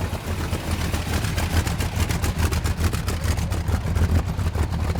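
A car engine with a loud exhaust running close by, its rapid firing pulses steady throughout.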